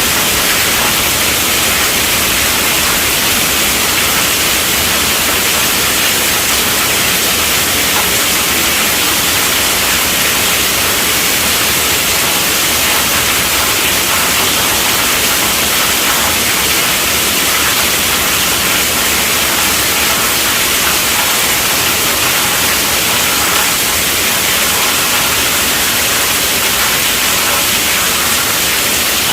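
Steady heavy rainfall, a dense even hiss of rain with no let-up and no single drops standing out.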